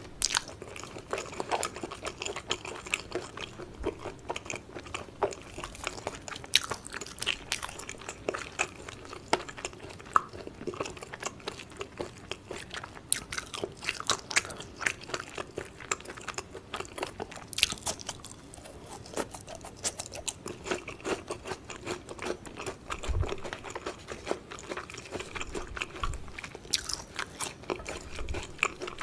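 Close-miked eating of yukhoe (Korean raw beef tartare) and crisp julienned Korean pear. Repeated wet chewing and crunchy bites with lots of small clicks and crackles.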